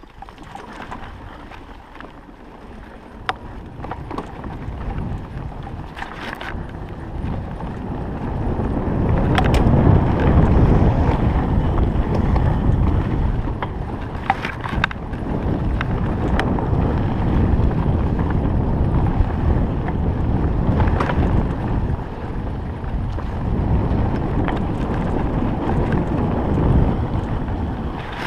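Wind rushing over the microphone and tyre rumble from a Stayer Enduro electric bike riding a forest road, growing louder over the first ten seconds and then holding steady. Scattered clicks and knocks sound through it.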